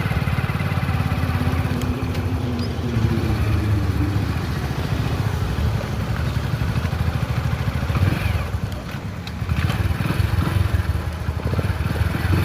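Motorcycle engine running while riding, with a dense low engine pulse. It drops off about eight seconds in, as if the throttle is eased, then picks up again.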